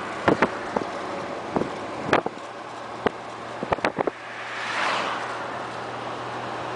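Road traffic noise: a vehicle passes with a rise and fall of sound about five seconds in. Over the first four seconds come a series of sharp, irregular knocks, with a steady low engine hum after that.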